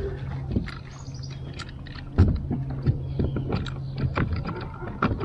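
Clicks and knocks on a plastic pedal kayak as the paddler shifts and handles gear, more frequent from about two seconds in, over a steady low hum.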